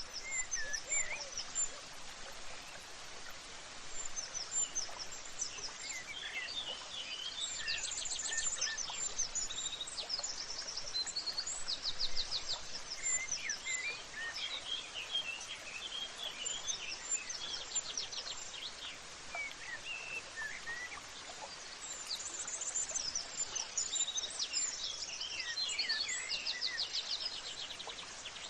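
Several small birds chirping and singing, with quick trills every few seconds, over a steady background hiss of outdoor ambience.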